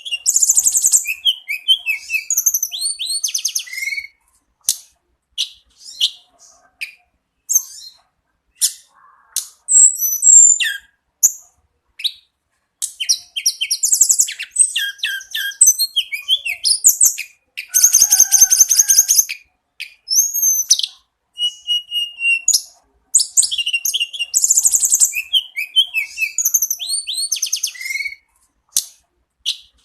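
A tledekan gunung (mountain flowerpecker) singing: high-pitched chirps and rapid trills in short phrases with brief pauses, and one denser, buzzier phrase about two-thirds of the way in.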